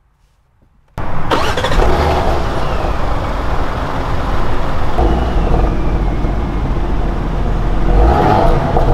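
Porsche Cayenne Coupe's 3.0-litre turbocharged V6 starting abruptly about a second in, then idling with a steady exhaust note. The engine swells twice as the throttle is blipped.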